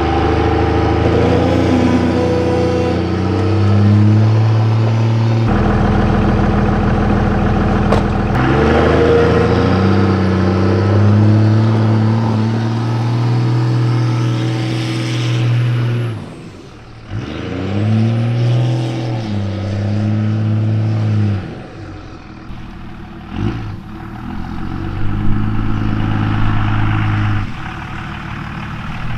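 Truck engine running and being driven, its pitch rising and falling several times with changes in throttle, dropping away briefly about sixteen seconds in before picking up again.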